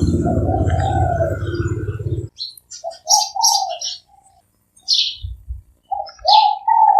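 Spotted dove cooing up close, a low call that stops abruptly a little over two seconds in. Then comes a run of short, high chirps from small birds.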